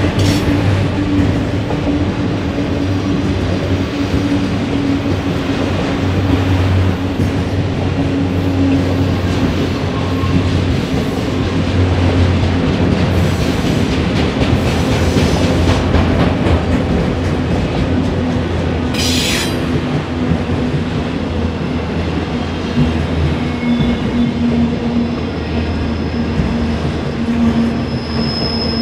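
BNSF freight train rolling steadily past, its wheels rumbling on the rails with a clickety-clack over the rail joints, and a brief high wheel squeal about two-thirds of the way through.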